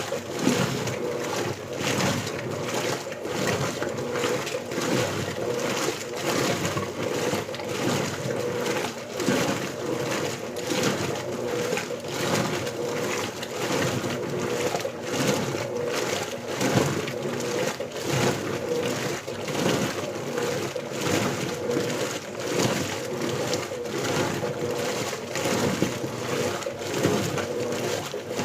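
Electrolux LBU15 top-loading washing machine agitating on turbo agitation, churning a small load of clothes in water back and forth. A rhythmic sloshing that surges about once a second, over a steady hum.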